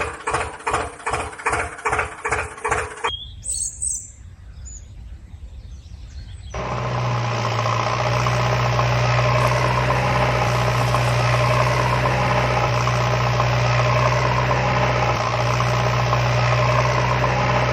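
Diesel tractor engine chugging in even beats, about three or four a second, for the first three seconds, then falling away. A brief chirp comes in the quieter gap. From about six and a half seconds a steady, louder engine drone holds to the end.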